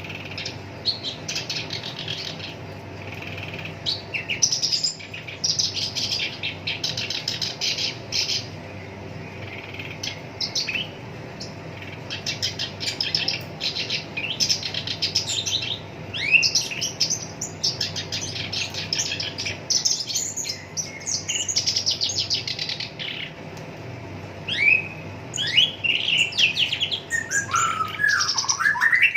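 Black-browed reed warbler singing a fast, chattering song of harsh, rattling trills, in phrases of a second or two with short breaks between them, with quick sweeping notes near the end.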